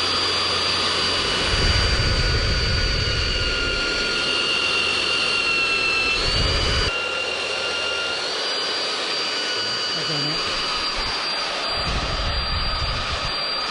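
Electric drill boring into the thick steel of an iron gate, its motor running with a steady whine over a hiss. The whine sags a little in pitch about five seconds in as the bit loads up, then recovers.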